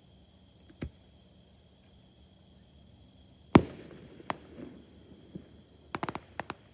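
Fireworks exploding: a single bang about a second in, a much louder sharp bang a little past halfway with a rumbling tail, then a quick cluster of crackling pops near the end. Insects trill steadily underneath.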